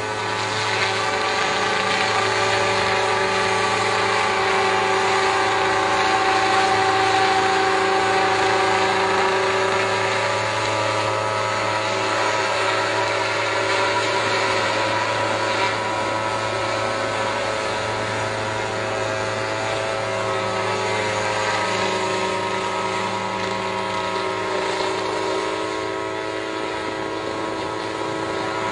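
Multirotor agricultural spraying drone flying, its propellers giving a steady, many-toned hum that shifts slightly in pitch as the rotors change speed.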